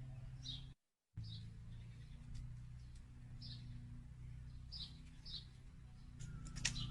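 A small bird chirping, short falling chirps repeated every second or so, over a steady low hum. The sound drops out completely for a moment about a second in.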